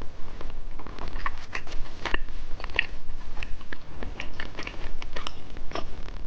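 Close-miked mouth sounds of someone eating a sweet candy snack: irregular crisp crunches and chewing, several a second, over a low steady hum.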